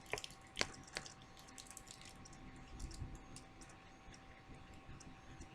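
A few light clicks and taps in the first second as a makeup brush is worked in an eyeshadow palette, then quiet room tone with a faint steady hum.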